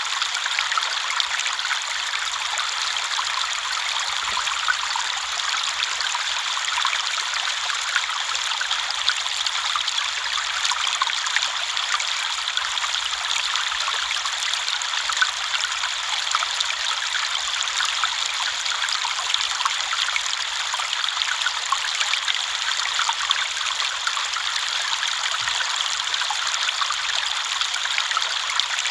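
River water flowing: a steady, even babble and trickle of running water, mostly high and hissy with little low rumble, flecked with tiny splashes.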